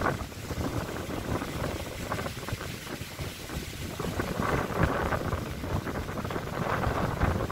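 Strong gusty wind rushing through trees, with wind buffeting the microphone; the gusts swell and ease, strongest in the second half.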